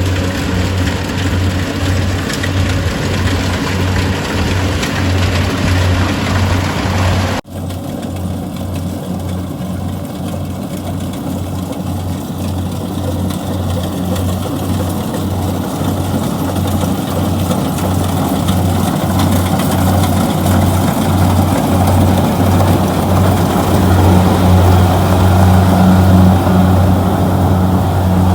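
Kubota DC-70G combine harvester's diesel engine running steadily with a low pulsing hum. It breaks off for an instant about seven seconds in and resumes with a changed tone, then grows gradually louder.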